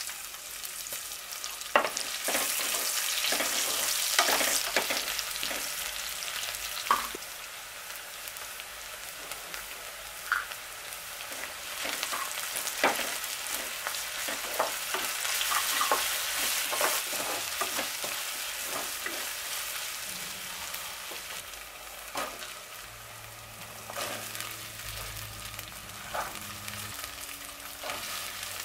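Food sizzling in hot oil in a pan, the sizzle starting suddenly and running on while it is stirred, with scattered sharp clicks of the stirring spoon against the pan.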